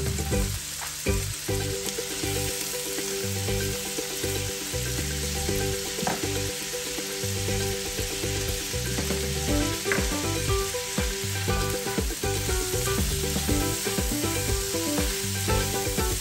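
Chickpeas and diced vegetables sizzling steadily in melted margarine in a wok, with short scrapes and knocks of a spatula stirring them.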